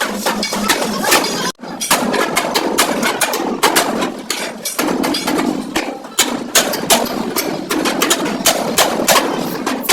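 Hammer blows on sheet-metal body panels of a Suzuki Bolan van, struck irregularly several times a second over a steady mechanical noise, with a brief break about one and a half seconds in.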